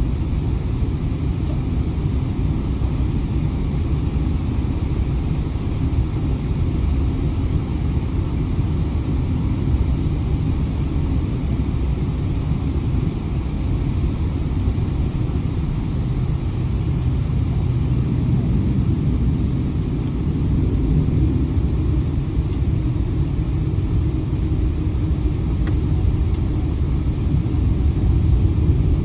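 Steady low rumble of an airliner's jet engines and rolling wheels heard inside the passenger cabin, growing a little louder in the last several seconds.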